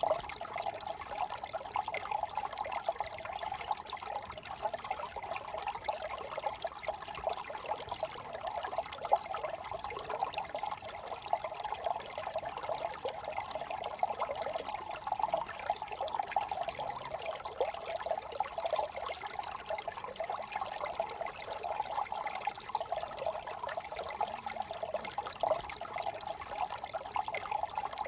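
Small brook trickling and burbling steadily over stones, a constant bubbling babble of shallow running water.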